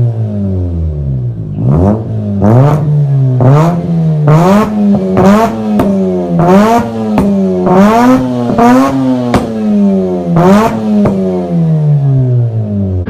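Mazda RX-8's twin-rotor Renesis rotary engine being revved in quick blips, about a dozen times, each rise in pitch falling straight back toward a lumpy idle between them.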